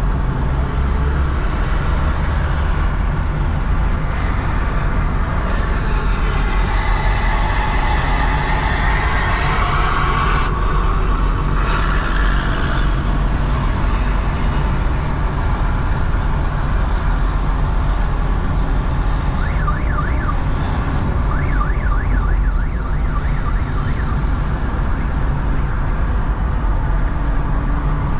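Steady road-traffic and vehicle rumble on a city drive. A siren rises and falls from about six to twelve seconds in, and a run of short rapid beeps comes about twenty seconds in.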